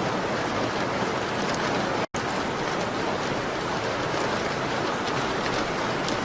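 Steady rain on a window: an even hiss with scattered faint ticks. It cuts out completely for a split second about two seconds in.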